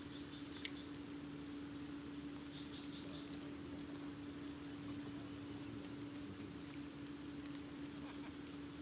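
Night insects trilling steadily: a continuous high-pitched chirring with an even pulse, over a background hiss and a steady low hum. A single sharp click comes just under a second in.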